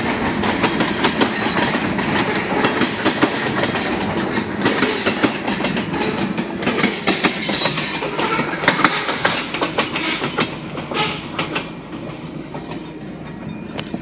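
Freight train cars rolling past, their wheels clacking in quick succession over the rail joints, the sound fading near the end.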